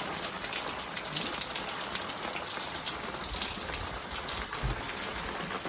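Steady rain falling, a dense patter of drops, with a couple of dull low bumps in the second half.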